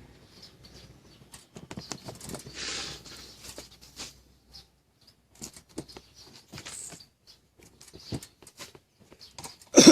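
Scattered light clicks and taps with a short scraping rustle about two and a half seconds in: small parts of a pop-up toaster being handled and worked on.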